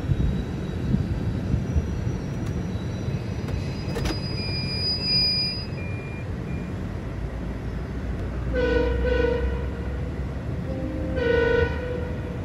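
Sounder commuter train rumbling along the track, then its horn sounds: two short blasts about two-thirds of the way through and a longer one near the end.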